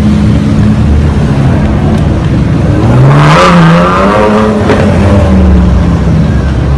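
Supercar engine revving up in a rising surge about three seconds in, then dropping back, over a steady low rumble of engines.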